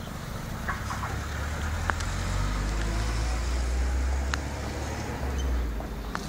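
A low rumble that swells about two seconds in and eases off near the end, with a few single sharp crackling pops from a burning rubbish fire.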